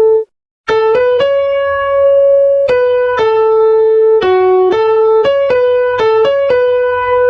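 Electronic keyboard with a piano-like tone playing a single-line melody one note at a time, about a dozen notes, some held and some quick. A brief silent break comes just after the start. It is a note-by-note melody guide for learning to sing the song.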